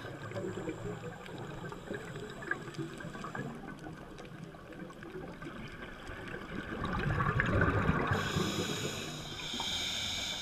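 Scuba diver breathing through a regulator underwater: bubbling from an exhalation that swells to its loudest about seven seconds in, followed by the hiss of an inhalation near the end.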